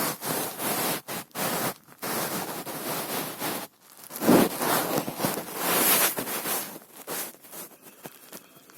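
Loud rustling noise in irregular bursts, stopping and starting several times and dying away near the end.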